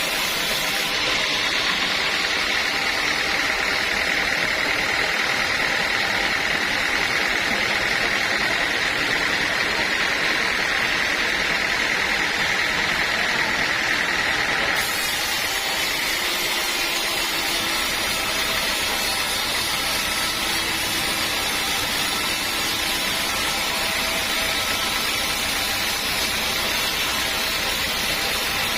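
Sawmill machinery running steadily with a continuous mechanical noise. The sound changes abruptly about halfway through.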